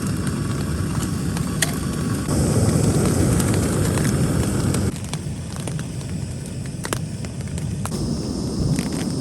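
Storm wind and rain on a backpacking tent: a steady low rushing noise with occasional sharp taps, its loudness shifting abruptly a few times.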